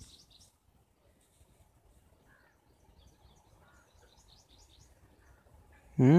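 Faint birds chirping in short high calls, mostly in the middle of the stretch, over a quiet background. A brief loud voice cuts in at the very end.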